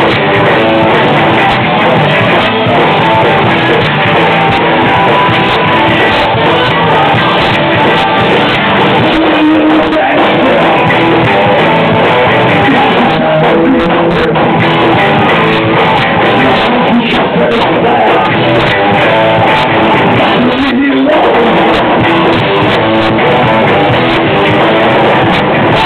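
Rock band playing live, loud and steady, with guitars to the fore.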